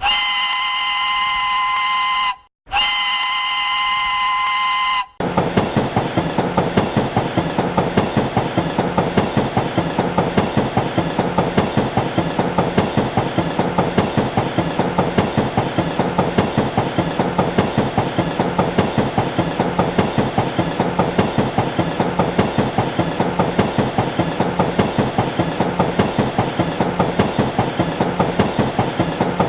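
Train horn sounding two long blasts, a chord of several tones. About five seconds in it cuts abruptly to a train's wheels running over the rails with an even, fast clickety-clack.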